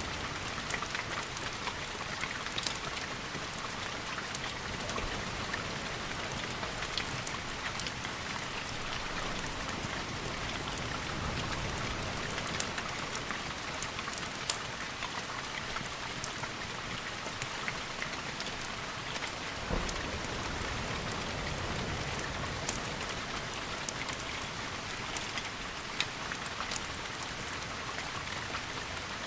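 Steady rain, with many scattered sharp ticks of single drops.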